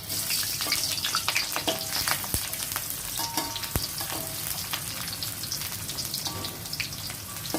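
Sliced shallots and garlic sizzling and crackling in hot oil in a frying pan as they are stirred, with two sharp knocks about a second and a half apart.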